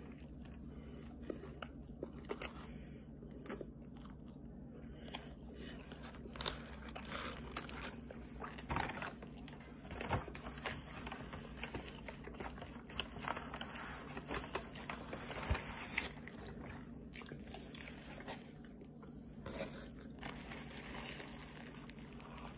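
A person biting into and chewing a fried chicken sandwich close to the microphone, with many small, scattered crunches and mouth clicks.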